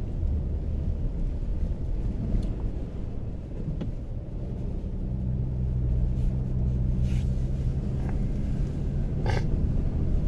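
Steady low rumble of a car driving, heard from inside the cabin. A low engine hum rises out of the rumble about halfway through and holds for several seconds. A few short clicks are heard, the loudest near the end.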